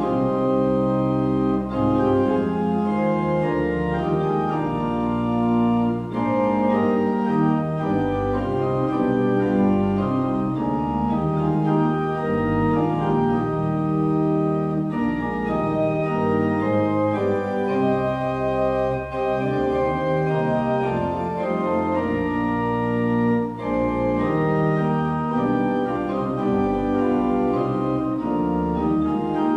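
Organ music: sustained chords held for a second or two each, moving steadily from one to the next.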